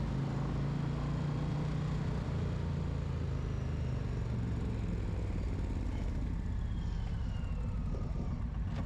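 Big V-twin bagger motorcycle engines running steadily at low revs, their pitch dropping slightly about two seconds in.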